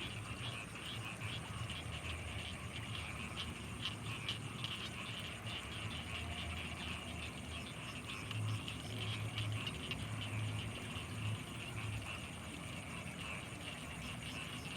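Night chorus of frogs and insects over rice fields: a dense, steady chirring of rapid chirps with a thin high tone above it. A run of deeper croaks pulses through the middle.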